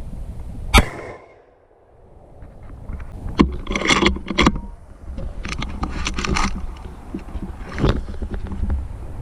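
A single rifle shot about a second in, the loudest sound, followed by clicks and rustling of handling. A steady low rumble, typical of wind on the microphone, runs underneath.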